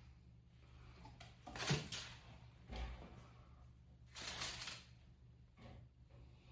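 Aluminium foil being handled: several short crinkles a second or so apart, one with a soft thump.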